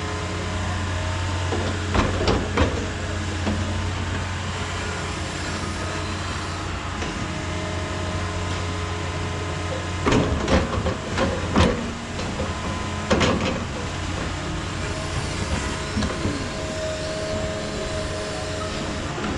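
Excavator's diesel engine running steadily, with loud sharp knocks: a pair about two seconds in, a quick cluster around ten to twelve seconds, and one more around thirteen seconds.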